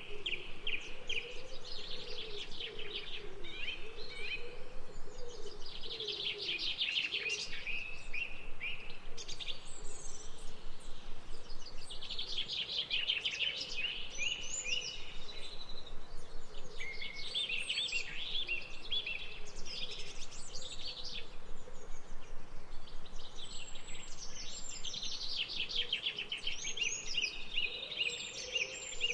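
Birds singing in bouts of rapid, chattering chirps that recur every few seconds, over a faint, lower wavering sound.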